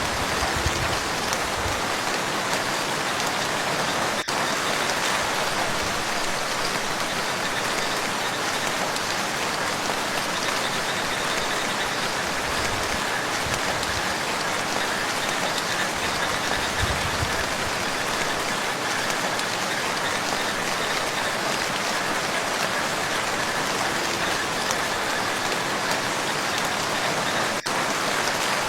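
Steady rain falling on a lake, an even dense patter of drops, with a few brief low rumbles near the start and around the middle.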